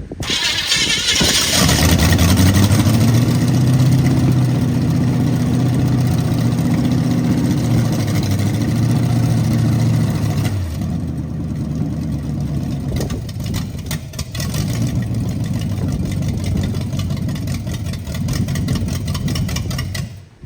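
Replacement engine in a 1929 Ford Model A truck catching on a start attempt and running, its first run after the locked-up original was swapped out. It starts about a second in with some revving, settles into a rougher, quieter run about halfway through, then cuts off suddenly near the end.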